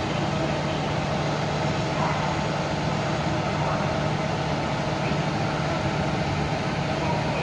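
Steady hum and hiss of a Talgo 250 train standing at the platform, its power car's equipment running with a constant low drone.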